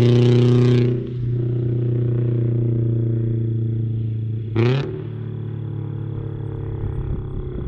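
Scion FR-S's flat-four engine pulling away down the road, loud at first and dropping off about a second in, with a short rising rev near the middle before the engine note fades to a steady distant drone.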